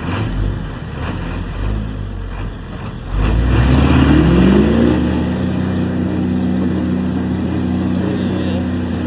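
1979 Ford truck's engine running low, then revving up about three seconds in, its pitch rising for a couple of seconds before holding steady at higher speed as the truck pulls.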